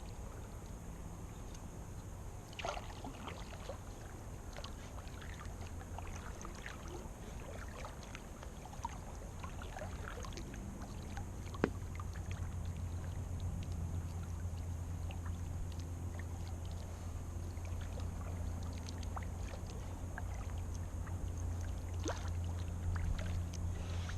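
Small inflatable raft moving on a pond: water lapping against the hull, with scattered small clicks and knocks and one sharp click about twelve seconds in, over a steady low rumble.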